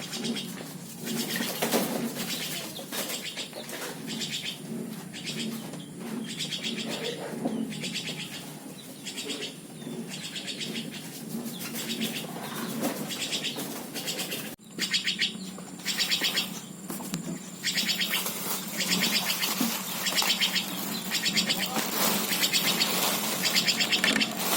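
Common flameback woodpecker nestling giving raspy, buzzing begging calls in repeated short bursts, about one or two a second, while being hand-fed. The calls come more often after a short break about halfway through.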